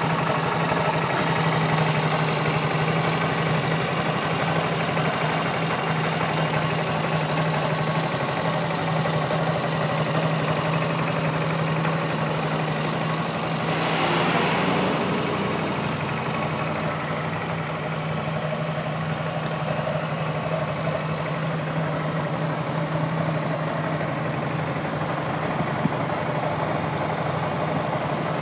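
Honda MSX125's single-cylinder four-stroke engine idling steadily, with a brief louder rush of noise about halfway through.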